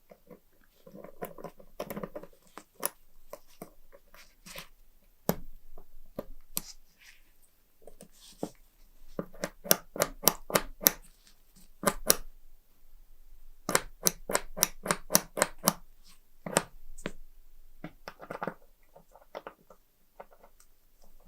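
Small metal parts of a trench lighter being worked by hand: scattered clicks and short scrapes, with two runs of rapid, evenly spaced clicks about a second and a half long, one in the middle and one a few seconds later.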